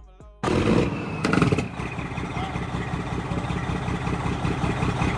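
Music cuts off about half a second in, giving way to a truck's diesel engine running steadily, heard up close.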